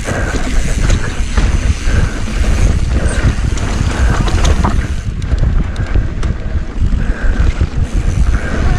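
Wind buffeting the camera microphone as a mountain bike rides down a rocky trail, with tyre rumble underneath and frequent short clicks and knocks from the bike going over rock.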